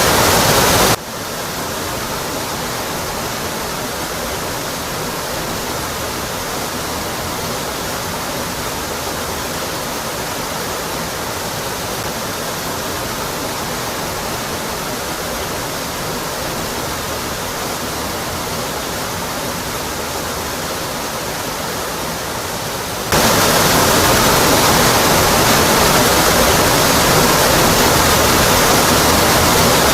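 Waterfall crashing onto rock, a steady full rush of water. About a second in it drops abruptly to a quieter, thinner rush with less depth, and near the end it cuts back abruptly to the full sound.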